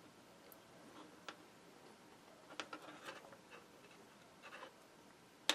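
Faint, scattered small clicks and light scratching from handling small objects at a workbench, with a cluster of clicks around the middle and a sharper click at the end.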